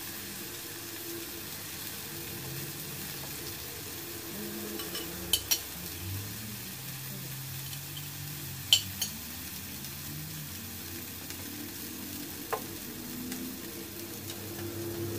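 Sliced beef, mushrooms and onions sizzling on a tabletop grill pan, a steady frying hiss. A few sharp clicks of chopsticks and forks against the pan and plates: a pair about five seconds in, another pair near nine seconds, and one more near the end.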